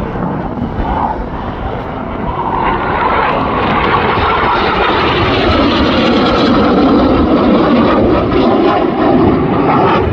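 Aircraft flying over at an airshow, the engine noise growing louder about two and a half seconds in and staying loud.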